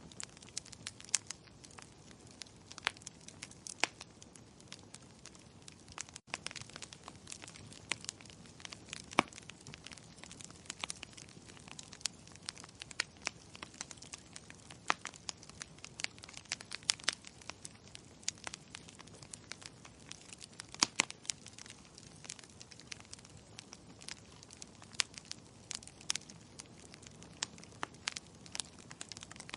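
Wood fire crackling in a fireplace: irregular sharp pops and snaps, several a second at times, over a steady soft hiss.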